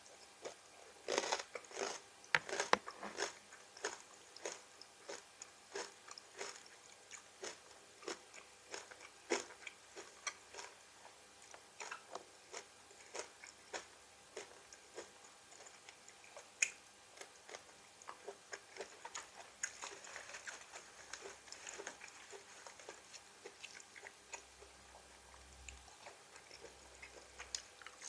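A person biting and chewing crunchy raw vegetables close to the microphone: a run of crisp crunches and wet mouth clicks, densest in the first few seconds.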